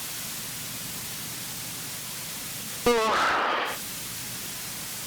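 Steady static hiss on the light aircraft's cockpit intercom audio. About three seconds in there is a short, louder burst of a wavering voice or radio transmission, under a second long.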